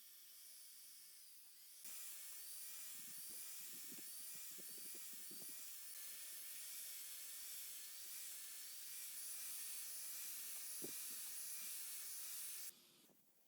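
A small workshop tool running steadily, a hiss with a faint wavering whine. It steps louder about two seconds in and cuts off near the end, with a few light knocks along the way.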